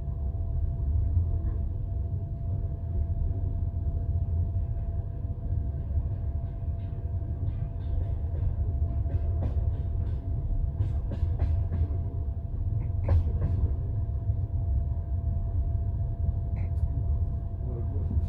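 Passenger train running on the rails, heard from inside a carriage: a steady low rumble with a faint steady hum. The wheels knock over the rail joints in a run of clicks about halfway through, and once more near the end.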